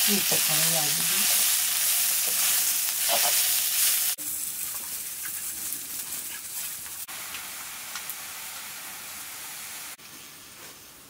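Potatoes and greens frying in a two-handled iron pan over a wood fire, sizzling while a metal ladle stirs them. The sizzle drops much quieter about four seconds in and fades further near the end.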